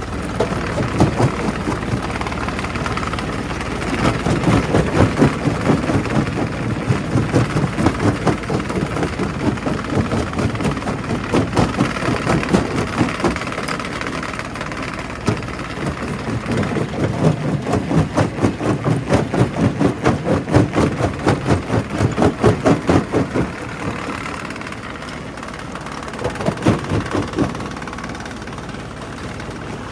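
Quarry primary rock crusher running with a steady heavy machine drone, broken by stretches of fast rhythmic knocking, about two or three strokes a second, as rock is crushed.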